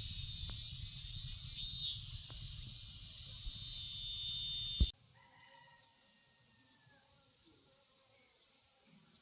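Insects, crickets among them, chirping steadily in a garden, with wind rumbling on the microphone and a brief higher chirp about two seconds in. About five seconds in the sound cuts abruptly to a quieter, steady insect drone with a faint bird call.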